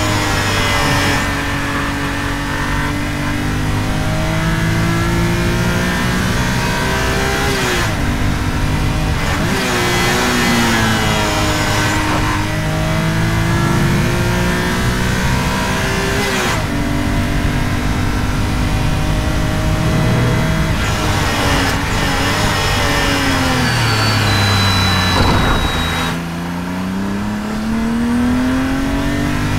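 Supercharged BMW E46 M3's 3.2-litre inline-six at full throttle on track. The engine note climbs through the revs and drops at each gear change several times, falls away as the car slows near the end, then climbs again.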